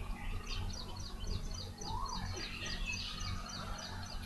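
A bird singing faintly in the background: a rapid series of short, high chirps, about four a second, with a lower rising-and-falling call about two seconds in, over a steady low hum.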